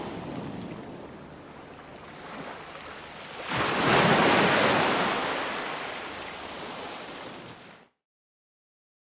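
Ocean surf: a wave breaks about three and a half seconds in with a sudden loud crash, then washes out and fades. Near the end the sound cuts off abruptly into dead silence.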